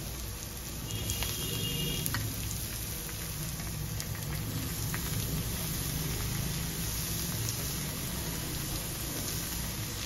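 Grated cauliflower frying in hot oil in a steel kadhai: a steady sizzle, with a few light clicks of the steel bowl and spoon against the pan.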